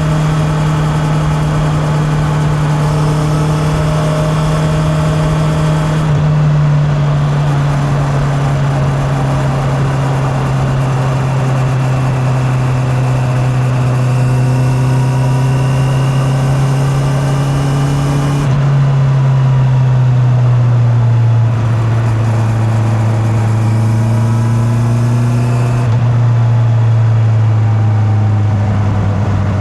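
Honda CB650R's inline-four engine running on the road, its pitch climbing slowly under gentle acceleration and then dropping sharply a few times as it changes up gears, before easing off near the end.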